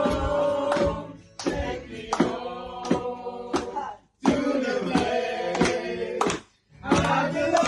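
Voices singing together over sharp percussive hits, in short phrases that cut off abruptly into silence, about a second in, four seconds in and six and a half seconds in.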